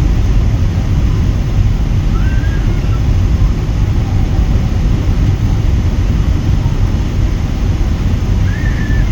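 Steady, loud low rumble of airliner cabin noise, from the jet engines and the air rushing past the fuselage, with a faint brief higher tone twice.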